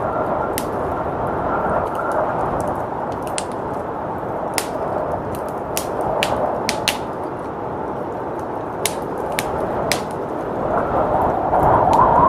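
Wood fire crackling, with scattered sharp pops, over the steady rush of blizzard wind; the wind swells near the end.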